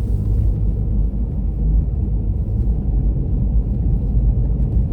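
Steady low road rumble inside a moving car's cabin, from the tyres and engine while driving.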